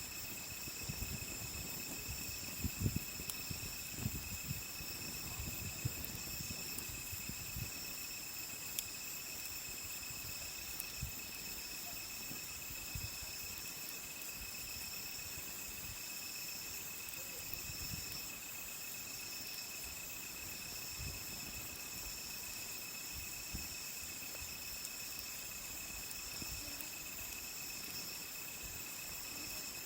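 A steady chorus of crickets and other night insects, several high trilling tones at once, one of them pulsing. Soft low thumps come and go, mostly in the first several seconds.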